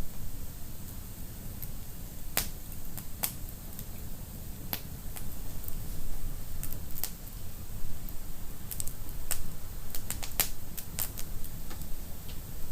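Wood fire burning in a fireplace: irregular sharp crackles and pops over a low steady rumble of the flames, with a quick cluster of pops about three-quarters of the way through.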